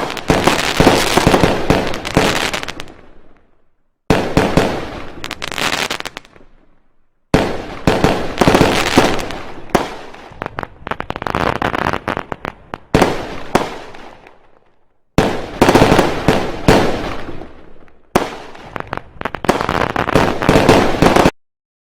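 Fireworks going off in volleys of rapid, crackling bangs, several bursts in a row. Each volley dies away into a brief lull before the next, and the last one cuts off suddenly near the end.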